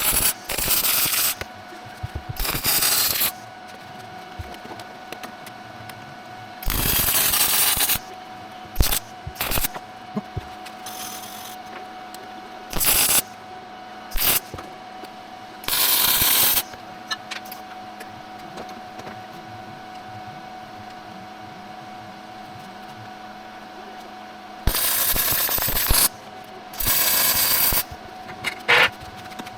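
Welder laying short welds on steel exhaust pipe: about ten bursts of crackling arc noise, each a second or so long, starting and stopping abruptly, with a faint steady hum between them.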